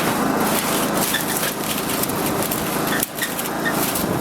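John Deere tractor's engine running as it drives slowly, under heavy wind buffeting on the microphone, with a brief drop about three seconds in.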